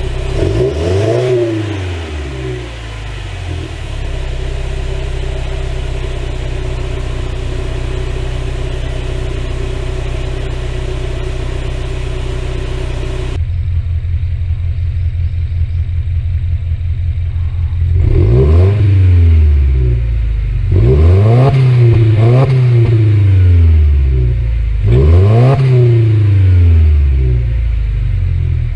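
Exhaust of a Subaru Levorg 1.6GT-S's turbocharged 1.6-litre flat-four engine, idling steadily with one brief rev near the start. After an abrupt cut about halfway through, it idles again, then is revved several times in quick blips, each rising and falling in pitch.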